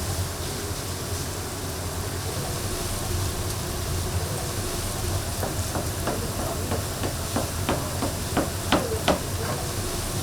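Kitchen work at a twisted-doughnut stall: a steady low hum and hiss, with a run of sharp knocks and taps starting about halfway that come faster and are loudest near the end.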